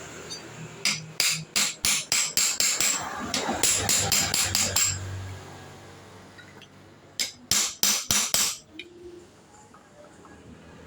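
Hammer striking a hard, likely metal workpiece in a run of quick blows, about three a second, then a pause and a shorter second run of blows.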